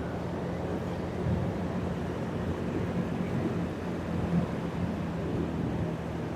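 Vehicle engine running at a steady speed while driving: a constant low drone under road and wind noise, with no revving.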